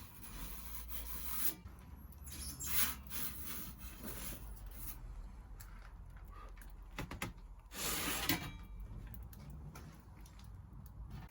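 Scraping and rubbing of a pizza peel against the oven stone and wood as a pizza is taken out, in short irregular strokes with a few clicks and a longer scrape about eight seconds in, over a low steady hum.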